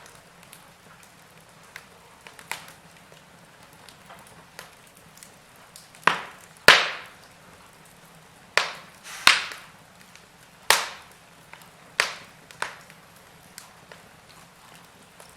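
Wood fire crackling in a fireplace: irregular sharp pops and snaps over a soft hiss. It grows busier about six seconds in, with several loud cracks in a row.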